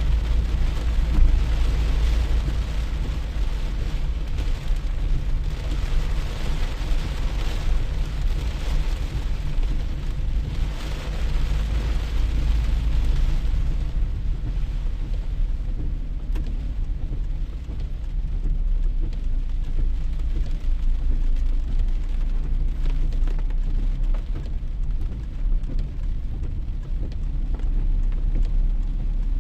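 Rain falling steadily, its hiss easing somewhat about halfway through, over a constant low rumble.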